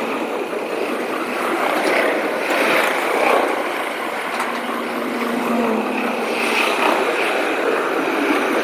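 A passing freight train, a steady rushing noise without a break.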